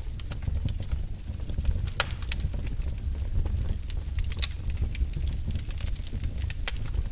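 Wood fire in a fireplace crackling, with frequent sharp, irregular pops over a steady low rumble.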